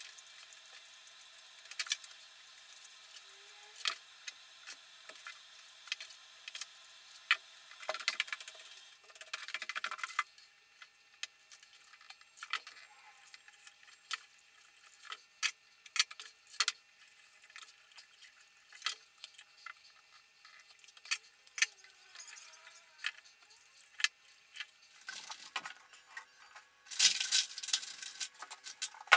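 Budgies pecking and chewing at cardboard and branch toys: irregular light clicks and taps, with short bursts of rustling and scratching, the loudest near the end.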